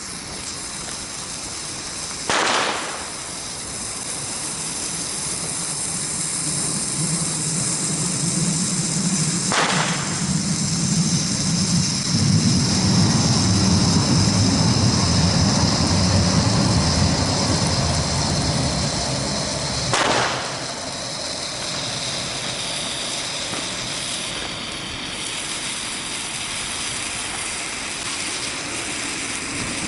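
Three New Year's Eve firecracker bangs, spread several seconds apart, over a steady high hiss. A low rumble swells in the middle and dies away after the third bang.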